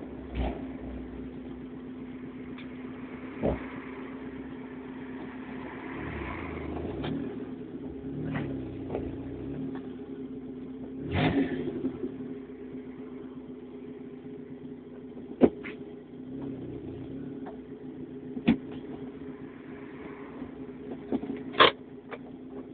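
Straight-piped Opel Corsa A 1.2 four-cylinder engine running at a steady low idle through its open exhaust, swelling briefly a few times as the throttle is blipped. Half a dozen short, sharp cracks stand out over the idle, the loudest about two-thirds of the way through.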